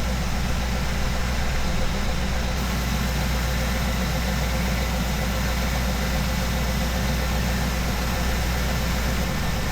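Ambulance engine idling steadily, running with an engine-flush additive circulating in the oil before an oil change.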